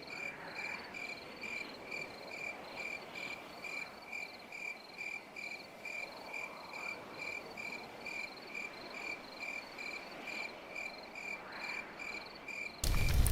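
A cricket chirping in an even rhythm, about two short chirps a second, over a faint hiss. It cuts off near the end as a louder sound starts.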